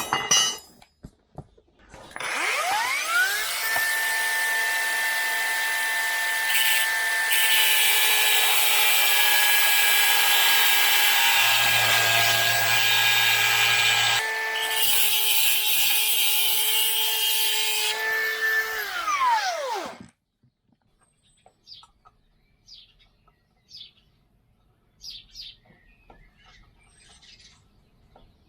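Electric angle grinder with a cut-off disc spinning up and cutting off the damaged threaded end of a steel bar for about eighteen seconds, its whine steady under load, then winding down. Faint bird chirps follow.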